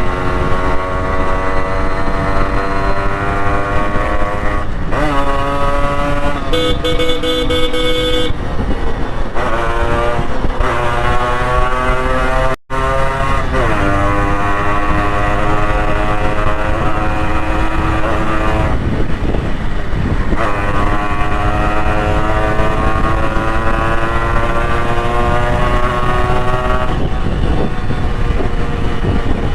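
Yamaha RX100's two-stroke single-cylinder engine pulling hard on the open road, its pitch climbing and then dropping back at each gear change, several times over. A vehicle horn sounds for about two seconds around seven seconds in, and the sound cuts out for an instant a little before halfway.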